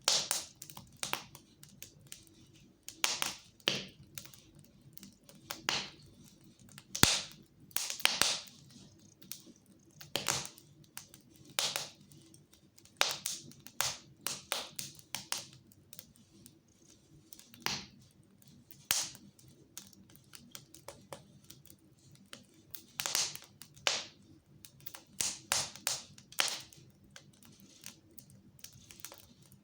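Fire in a fireplace crackling, with irregular sharp pops and snaps, some much louder than others.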